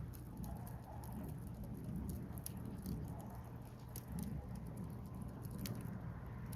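Wood fire burning: scattered small crackles and pops over a low, steady rush, with one sharper pop near the end.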